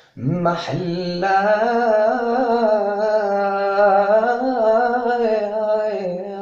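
A man singing a Palestinian mawwal, drawing out the word 'mahlah' in one long held note with a wavering, ornamented pitch.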